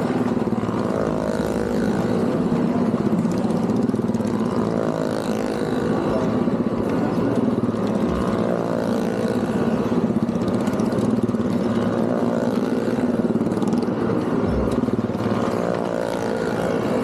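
Engines of stunt vehicles circling the wall of a well of death, running continuously as a loud drone whose pitch rises and falls slightly.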